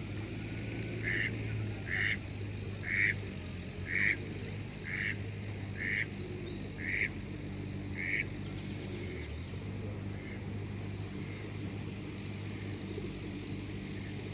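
Hooded crow calling: a series of eight short calls, about one a second, that stops about eight seconds in.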